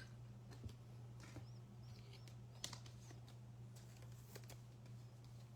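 Near silence: a steady low electrical hum with scattered faint clicks and a few soft, high chirps.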